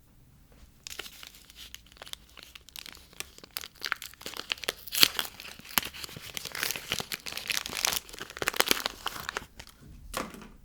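Soap packaging being torn open and crumpled by hand: a dense, crackling rustle of wrapper that begins about a second in, grows busier in the middle and stops shortly before a brief last rustle near the end.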